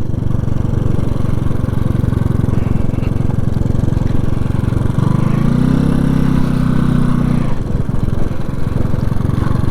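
Motorcycle running along the road, its engine pulsing steadily under road and wind noise. From about five seconds in, a steady low droning tone sounds for about two and a half seconds and then stops.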